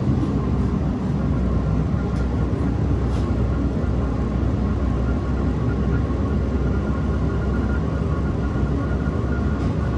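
Chinese diesel air heater running with a steady low rumble as its burner catches after a restart, with a faint whine joining about two seconds in; air is probably still purging from the fuel line.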